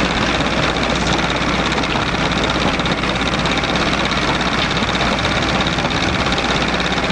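Steady mechanical running noise with a faint low hum underneath, like a motor or engine running.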